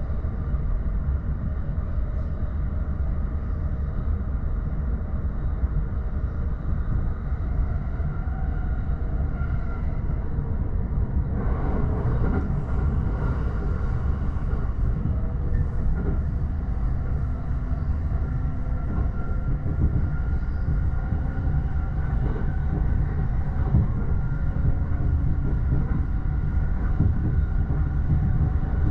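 E231 series commuter train running at speed, heard from inside the bilevel Green car's upper deck: a steady rumble of wheels on rail with faint steady tones above it. About eleven seconds in, a brief rush of noise rises and then settles back.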